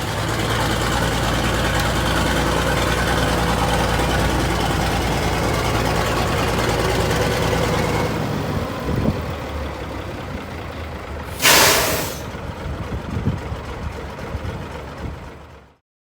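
Heavy truck engine running steadily, easing off to a quieter, rougher run about eight seconds in, then a single loud hiss of air-brake air being let off, lasting under a second.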